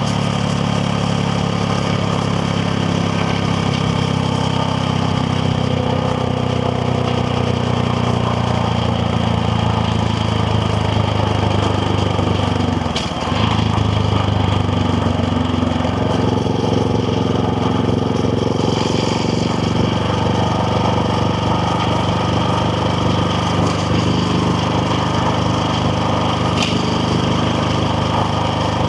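KTM Duke 690R's single-cylinder engine running under way at fairly steady revs, over a haze of wind and road noise. About halfway through the engine note and level briefly drop, then pick back up.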